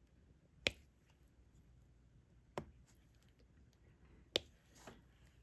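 Three sharp, separate clicks about two seconds apart, with a softer one near the end, from handling diamond-painting tools: the drill pen and its plastic parts.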